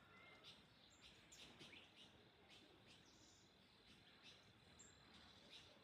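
Faint birds chirping: many short, high chirps and brief whistled notes over a low background hiss.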